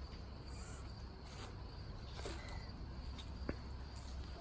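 Insects drone steadily at a high pitch in the background. A few faint short rustles and knocks sound here and there, with low rumble underneath.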